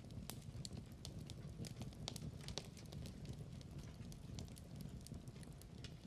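Wood fire burning in a fireplace: a low steady rumble of flames with frequent irregular crackles and pops.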